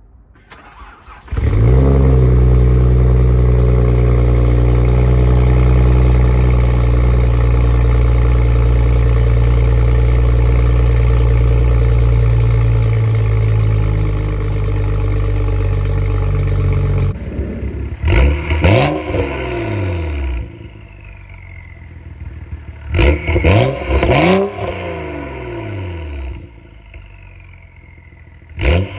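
BMW 135i's N55 turbocharged straight-six, with a decat downpipe and M Performance exhaust, cranking and catching on a cold start, then holding a loud, steady fast idle. Later, after a cut, it idles lower and is blipped in short sharp revs in three groups, each followed by a high falling whistle.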